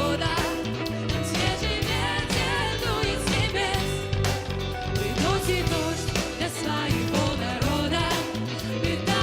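Worship band playing with a voice singing, over guitar and drums.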